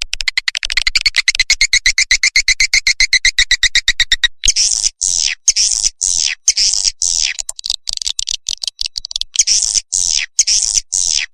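Swiftlet lure-call recording of swiftlet chirps. It opens with a rapid trill of very fast chirps, about fifteen a second, for about four seconds, then turns to separate high chirps that each fall in pitch, about two a second.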